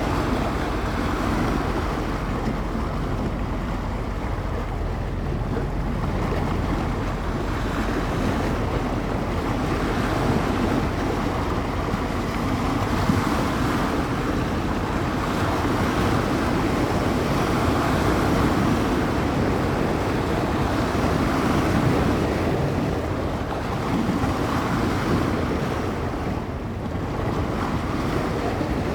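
Small bay waves breaking and washing on the shore, swelling and easing every few seconds, with wind buffeting the microphone in a low rumble.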